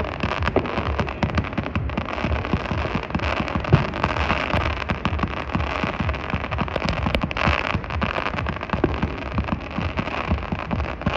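Fireworks going off in a dense, continuous barrage of bangs, pops and crackles with no let-up.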